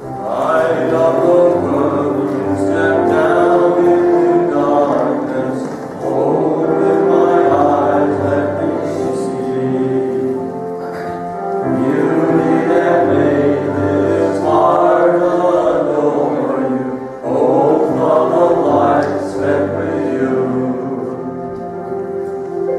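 A congregation singing a hymn together over an instrumental accompaniment, in phrases of a few seconds with short breaths between them.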